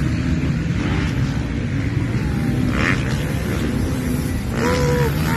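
Motocross dirt bike engines running on the track, a steady mix of engine noise, with one engine note rising and falling briefly near the end.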